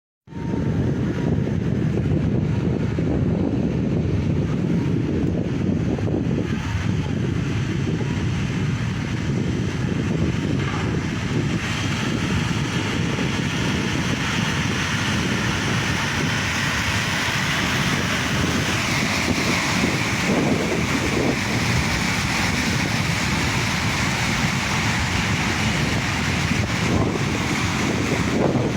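Floodwater rushing in a continuous, steady noise, with a brighter hiss coming up from about halfway.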